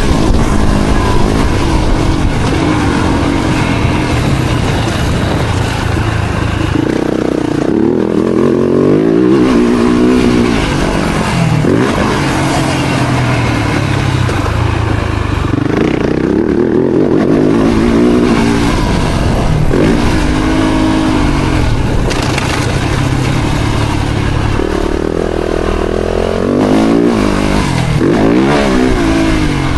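Four-stroke motocross bike engine being ridden hard, revving up and dropping back over and over as the rider opens and shuts the throttle and shifts.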